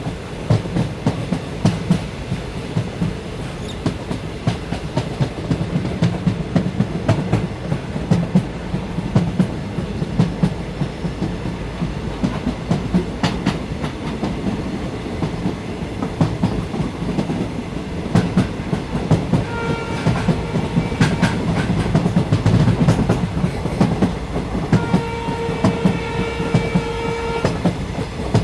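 Train running along the track: a steady low rumble with the clickety-clack of wheels over rail joints. A steady pitched tone sounds briefly about 20 seconds in and again for about three seconds near the end.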